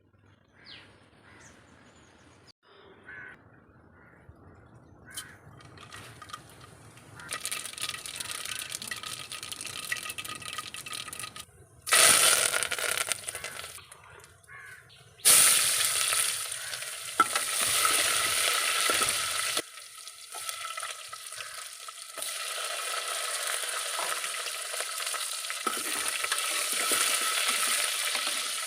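Food frying and sizzling in hot oil. The first few seconds are nearly quiet; the sizzle comes in about seven seconds in and jumps suddenly louder twice, then carries on steadily.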